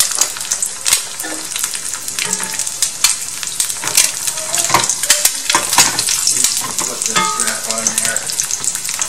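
Oil sizzling steadily as an egg fries and fried rice cooks in a cast-iron skillet, with scrapes and clicks from a spatula stirring the rice and small pops of spattering oil.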